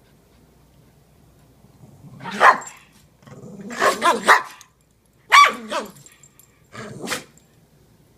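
Dogs play fighting: short barks and growls in a few quick bursts, starting about two seconds in, with a loud cluster in the middle.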